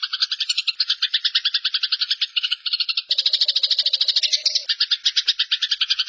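Eurasian tree sparrow giving its fighting call: a fast, unbroken chatter of short harsh notes, about a dozen a second.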